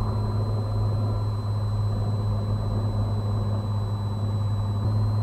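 Cessna 182's piston engine droning steadily in the cockpit on final approach, with a slight rise in loudness near the end.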